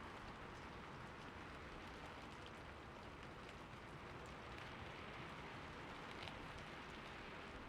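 Steady rain falling, with scattered individual drops ticking. No thunder.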